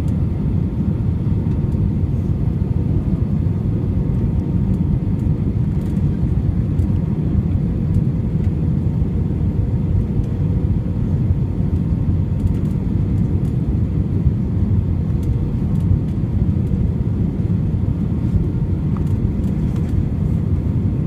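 Steady low rumble of a jet airliner's engines and airflow heard inside the passenger cabin on approach, with a faint steady hum over it.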